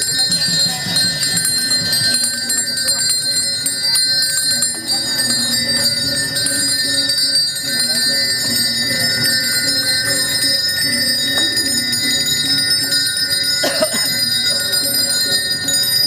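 A Balinese priest's hand bell (genta) rung continuously without a break, its ringing steady throughout, with voices chanting in long held notes beneath it.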